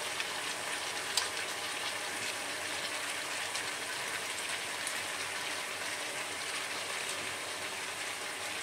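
Broccoli and carrot stir-fry sizzling in a frying pan on the hob: a steady, even hiss, with one light click about a second in.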